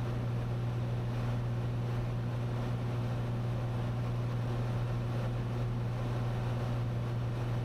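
Cessna 182's engine and propeller droning steadily in cruise, heard from inside the cabin: one constant low hum over an even rush of air noise.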